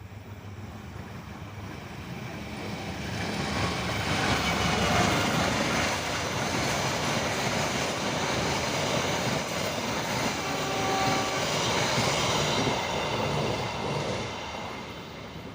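Train passing close by on the rails: its rumble and wheel noise build over the first few seconds, stay loud for about ten seconds, then fade near the end.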